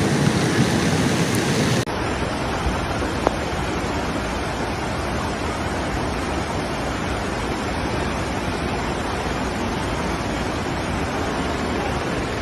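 Steady rushing water, an even noise with no rhythm; about two seconds in it cuts abruptly to a slightly quieter, duller stretch of the same kind of noise.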